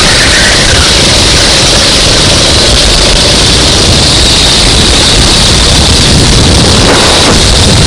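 Racing kart engine running continuously at speed, loud and close, with a dense, distorted noise and no breaks.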